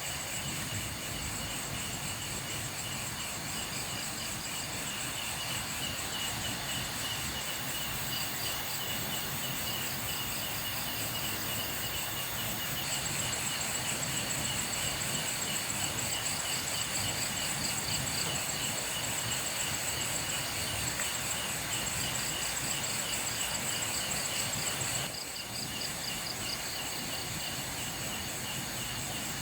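Night insect chorus of crickets chirring: several overlapping high, pulsing trills. The chorus gets a little louder about halfway through and drops back near the end.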